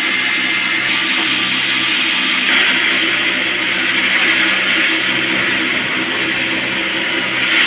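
Band sawmill running steadily: a low machine hum under a loud hiss from the blade, its tone shifting abruptly about a second and two and a half seconds in.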